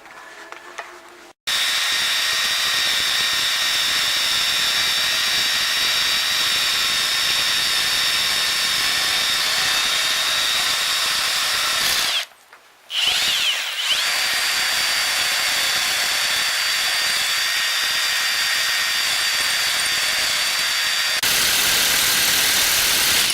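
Electric power tool running steadily at high speed with a high whine. It stops for about a second near the middle, then spins back up and runs on.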